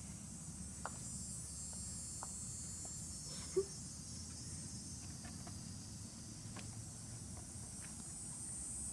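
Faint steady hiss and low rumble, with a few light clicks and taps scattered through it.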